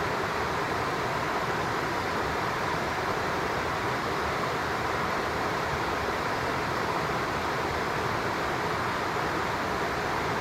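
Steady rushing of a flowing stream, an even hiss with no breaks.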